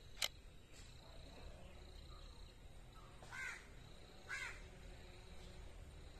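Two short, harsh bird calls about a second apart, over a steady low background, with a single sharp click just after the start.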